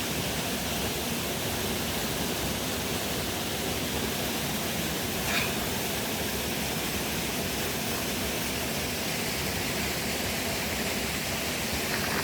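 Steady rush of a waterfall, an even hiss of falling water with no change in level. A brief high-pitched sound cuts in once, about five seconds in.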